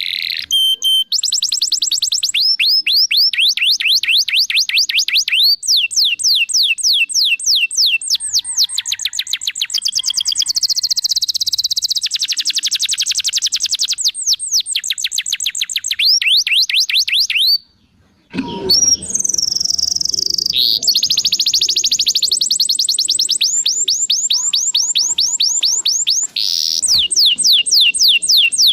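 Domestic canary in full song: long rolls of fast, rapidly repeated high notes that sweep downward, switching from one trill to the next in speed and pitch, with a brief break about two-thirds of the way through.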